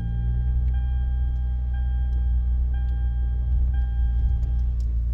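A 2016 Hyundai Elantra GT's four-cylinder engine idling steadily; the engine has a rod knock, which is not too bad at idle. A warning chime rings about once a second and stops near the end.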